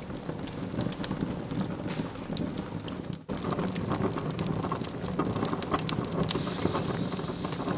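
Wood fire crackling in a fireplace: frequent sharp pops and snaps over a steady low rush of flames, with a brief dropout about three seconds in.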